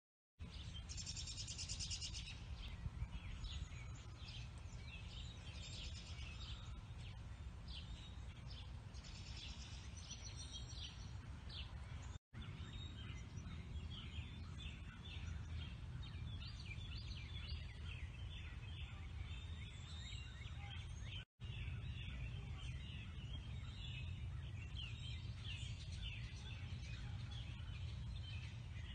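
Several birds singing and chirping, a dense run of short high calls, over a steady low rumble. The sound cuts out completely for an instant twice.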